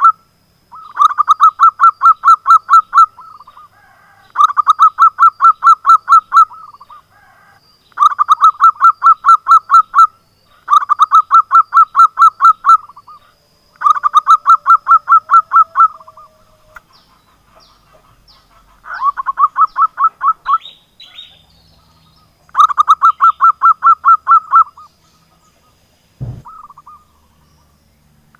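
Zebra dove (local perkutut) singing its cooing song over and over: phrases of rapid, evenly pulsed notes about two seconds long, repeated roughly every three to four seconds. A single sharp knock comes near the end.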